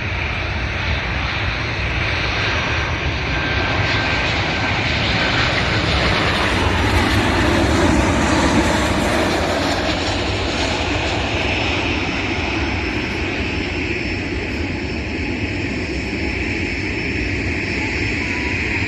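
Airliner's engines running loud and steady, swelling to a peak about eight seconds in and then easing off slightly.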